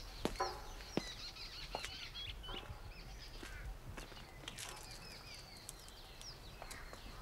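Small birds chirping and calling: many short, high, quick chirps and whistled notes, scattered irregularly over faint outdoor ambience.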